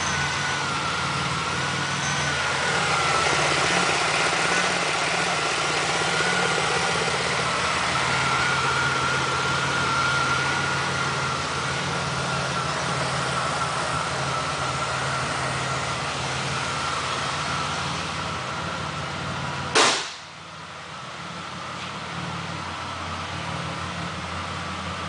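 1999 Pontiac Grand Prix GT's 3.8-litre V6 running steadily at idle, with a thin wavering whine over the low hum. About twenty seconds in there is one sharp bang, and the engine sound is quieter after it.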